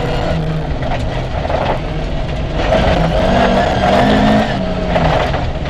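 Rally car's engine heard from inside the cabin, revs rising and falling with gear changes, over constant tyre and stone noise from the stage surface.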